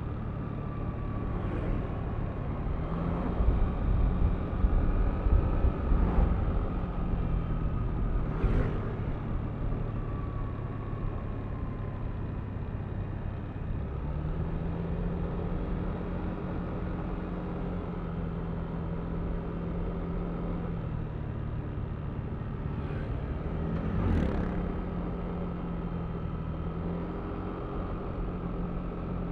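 Yamaha Aerox V3 scooter's single-cylinder engine and CVT running while riding, with a steady engine hum, a higher whine that falls slightly in pitch, and rumble from wind and road. A few short sharp knocks stand out, the clearest about 8 seconds in and again near 24 seconds.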